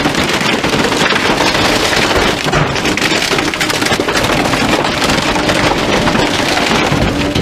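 Wood cracking and splintering in a dense, continuous crackle as bulky items are crushed in a garbage truck's compactor.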